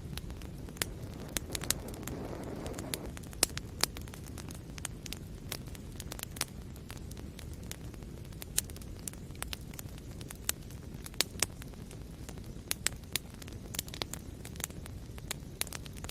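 Wood fire burning in a fireplace: a steady low rumble of flames with sharp, irregular crackles and pops from the burning logs, and a short hissing swell about two seconds in.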